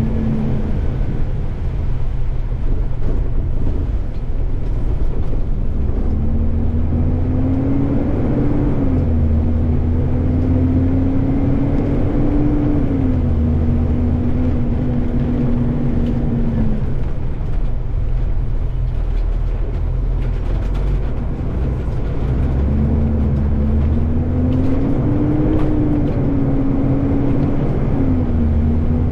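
Garbage truck's diesel engine pulling through its gears, its pitch climbing and dropping back at each shift, in two spells of acceleration with a steadier stretch between. Heavy wind rumble on the camera mounted at the front of the truck runs underneath.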